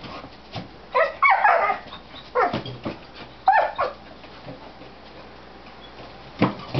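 Excited pet dog giving several short yips and whines in quick succession, then falling quiet, with one short sharp sound near the end.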